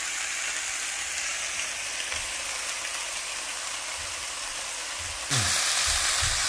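Italian sausage with sliced onions and peppers sizzling in a hot skillet, a steady frying hiss. A little over five seconds in, the sizzle abruptly gets louder and brighter.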